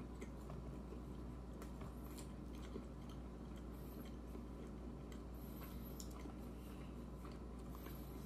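A person chewing a mouthful of soft, soggy fried fish sandwich: faint irregular mouth clicks and smacks, with no crunch, over a steady low hum.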